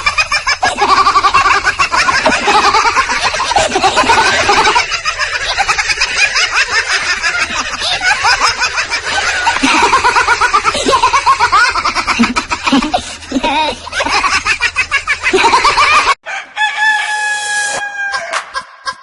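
Farmyard ringtone of chickens clucking and a rooster crowing, many calls overlapping. About sixteen seconds in it cuts off abruptly and the next ringtone starts with steady electronic tones.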